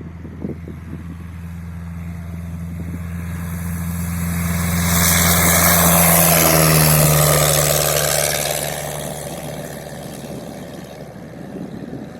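Cessna 172's Lycoming O-320 four-cylinder engine and two-blade propeller passing close by. The sound swells to a loud peak about halfway through, drops in pitch as it goes past, then fades.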